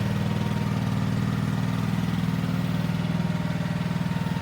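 Honda petrol engine of an engine-driven log splitter running steadily at an even speed, with a fast, regular firing beat.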